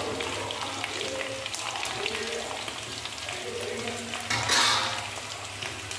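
Whole small potatoes shallow-frying in hot oil in a kadhai: a steady crackling sizzle, with a brief louder hiss about four and a half seconds in.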